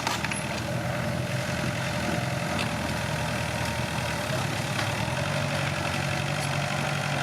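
Komatsu D21P bulldozer's diesel engine running steadily at low revs, with a few faint clicks over it; the engine note shifts slightly about five seconds in.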